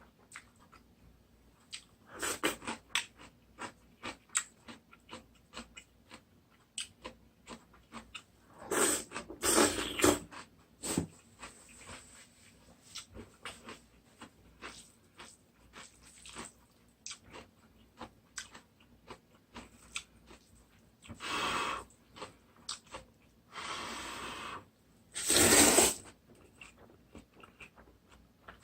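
Close-up eating sounds of instant ramen noodles: wet chewing with many small mouth clicks, broken by several loud slurps of about a second each. The loudest slurps come about nine seconds in and near the end.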